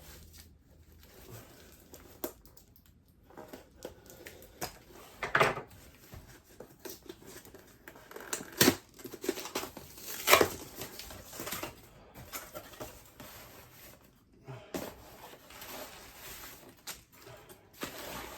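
A parcel being opened by hand: packaging and tape tearing and rustling in irregular spells, with a few louder rips.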